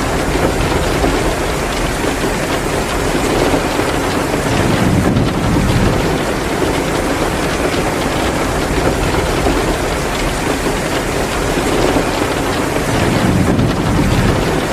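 Heavy rain pouring down steadily, with a deeper swell about four seconds in and again near the end.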